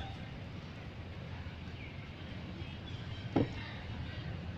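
Steady low background rumble with a few faint high squeaks, and one short thump about three and a half seconds in.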